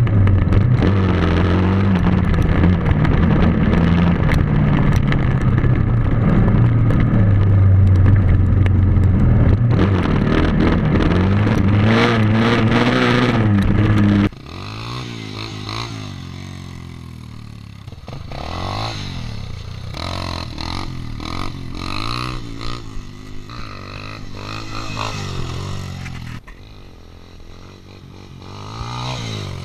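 Motorcycle engine accelerating and revving, loud for the first half. About halfway through it cuts abruptly to a quieter passage in which the revs rise and fall again and again.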